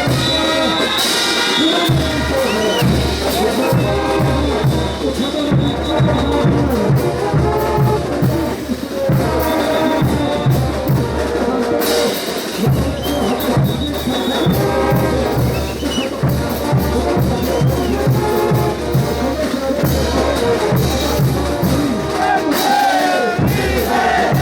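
Bolivian brass band playing a ch'uta dance tune, with brass carrying the melody over a steady low bass-and-drum beat.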